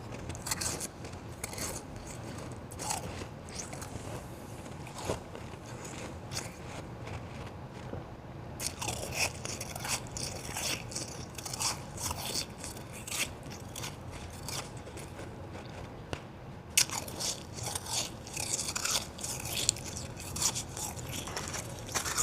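Close-miked biting and chewing of ice: crisp crunches and crackles, sparse at first and coming thick and fast from about a third of the way in, with one sharp, loud crunch a little past the middle.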